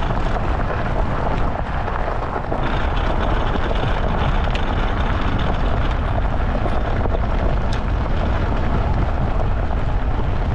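Off-road luge cart running fast down a rough dirt track: a loud, steady rumble and rattle of the wheels over the uneven ground.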